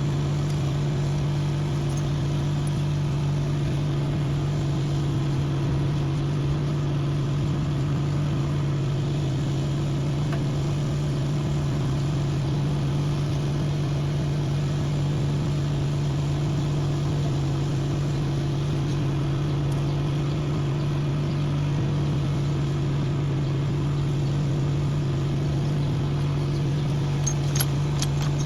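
An engine idling steadily with an unchanging low hum, with a few sharp clicks near the end.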